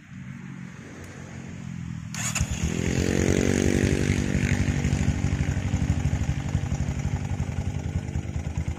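A Honda Mega Pro's single-cylinder engine, running on a modified Honda Tiger carburettor, starts about two seconds in. It catches, rises briefly in revs, then settles into a steady idle.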